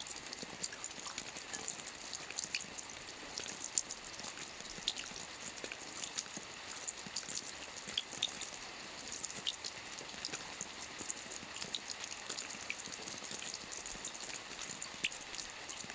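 Steady rain: a soft, even hiss with many separate drops ticking sharply throughout.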